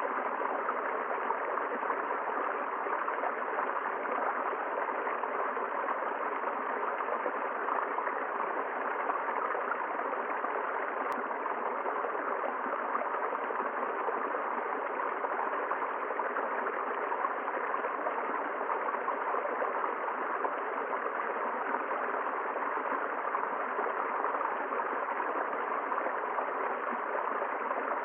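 River water rushing and gurgling steadily over rocks.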